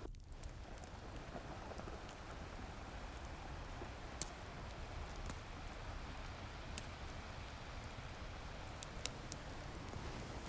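Wood fire crackling, with a few sharp pops scattered through, over the steady wash of ocean surf.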